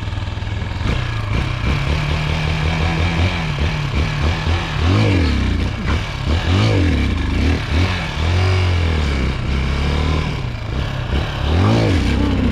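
Chinese 250cc dirt bike engine running. After about four seconds it is revved up and down repeatedly, roughly once a second; this bike is low on power.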